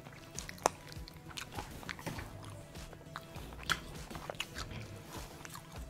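A person biting and chewing crispy fried chicken close to the microphone: irregular crunches and wet chewing sounds, with a sharp crunch about two-thirds of a second in and another near the middle.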